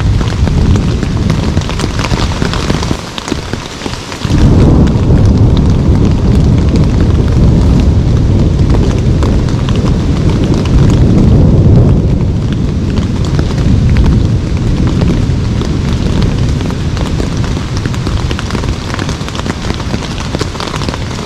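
Heavy rain in a thunderstorm, with a long, low roll of thunder that swells about four seconds in and fades away some eight seconds later.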